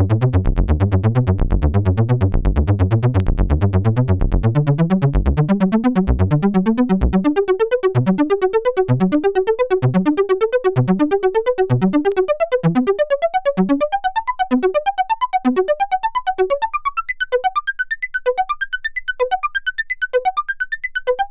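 Behringer System 100 analog modular synthesizer playing a fast, repeating bass-note pattern. The notes start low and dense, then climb steadily higher and turn into shorter, separated plucks.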